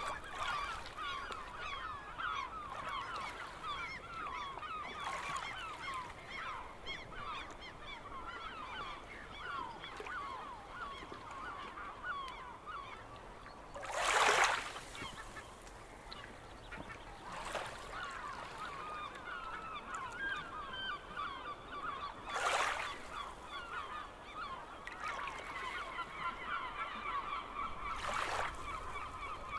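A large flock of birds calling nonstop, many short calls overlapping into a continuous chatter. Four brief rushing whooshes cut through it, the loudest about halfway.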